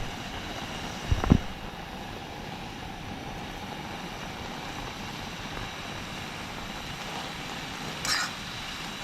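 Steady heavy rain, a continuous even hiss. A single dull thump comes about a second in, and a brief hissing rustle near the end.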